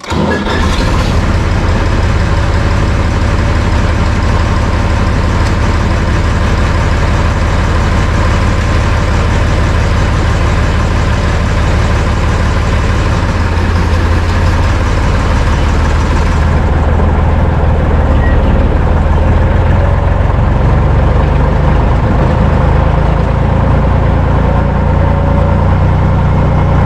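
Deutz tractor's diesel engine running steadily. It starts abruptly, and past the middle its low rumble grows stronger while the higher hiss falls away.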